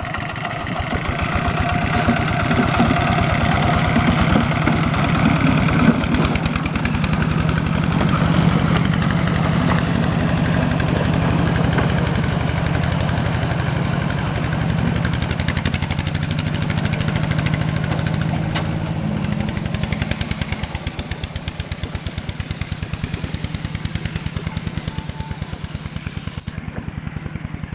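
Tractor engine running with a fast, even chugging beat while the tractor crosses a stream. It drops somewhat in level about twenty seconds in.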